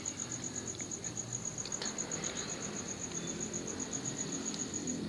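Crickets chirping in a steady, rapid, high-pitched pulse, about six chirps a second.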